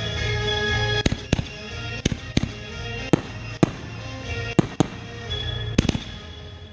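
Fireworks bursting in a display: about ten sharp bangs, mostly in quick pairs, with music playing under them.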